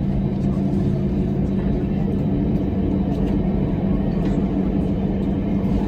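Steady low hum inside the cabin of an Airbus A321 on the ground, with a strong even drone from the aircraft's air-conditioning and engines, plus a few faint clicks.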